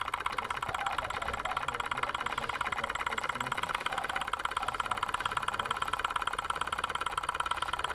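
Small homemade gamma-type Stirling engine running at a steady speed, its glass power piston and wire-linked crank making a rapid, even clatter.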